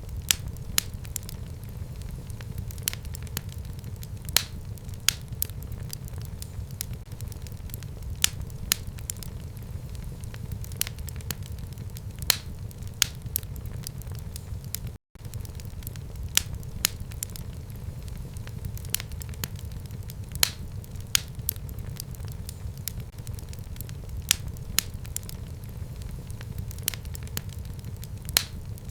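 Fire in a home fireplace crackling: irregular sharp pops and snaps over a steady low rumble of the flames. The sound cuts out for an instant about halfway through.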